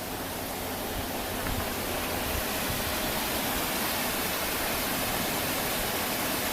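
Steady rushing of running stream water, an even hiss that stays constant with no breaks.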